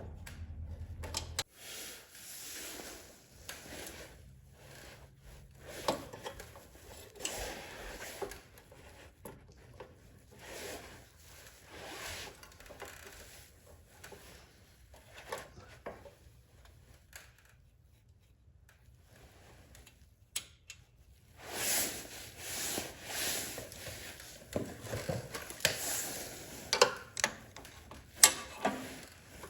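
Hand work on a snowblower carburetor: irregular rubbing, scraping and light clicks of small parts and tools being handled, quieter for a few seconds past the middle, then busier with sharper clicks near the end.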